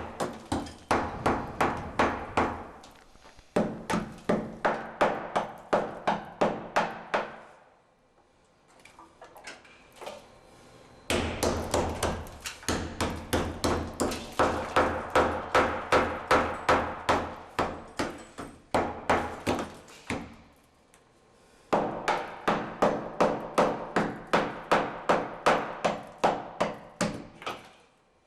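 Hammer blows chipping out tile and light concrete with wire mesh in a wall, about three sharp strikes a second. The blows come in three long runs with short pauses between.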